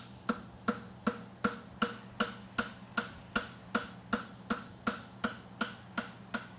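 Blacksmith's hammer striking a hot forge-welded horseshoe on the anvil in an even rhythm, about two and a half blows a second, working the welded toe seams together. A steady low hum runs underneath.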